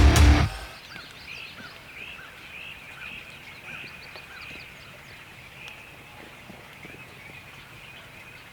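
Music cutting off in the first half second, then a songbird singing a run of short, arched chirping notes, about two a second, which stop after about six seconds.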